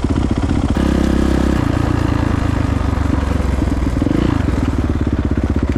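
Dirt bike engine idling with rapid, even firing pulses, its revs rising briefly about a second in and again around four seconds.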